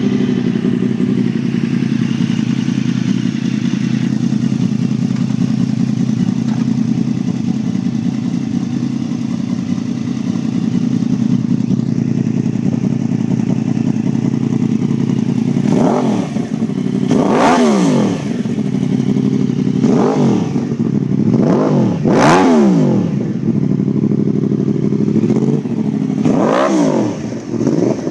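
2010 Yamaha YZF-R1's crossplane inline-four idling steadily through a Competition Werkes exhaust with a catless Y-pipe, then revved in several quick throttle blips past the halfway mark, each rising sharply and falling back to idle.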